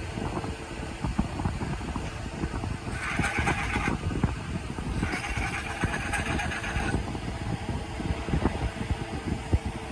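An engine running with dense, irregular low knocking, and two bursts of hissing, one about three seconds in and another about five seconds in.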